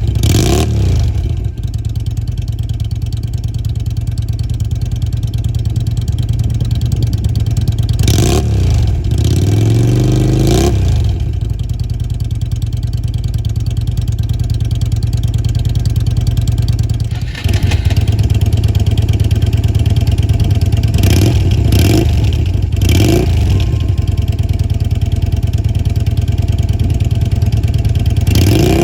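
Yamaha Drag Star 250's air-cooled V-twin idling through its exhaust, with the throttle blipped several times so the pitch rises and falls: once around a third of the way in, then in a quick series later on and again near the end. About 17 seconds in, the sound breaks briefly and then runs a little louder.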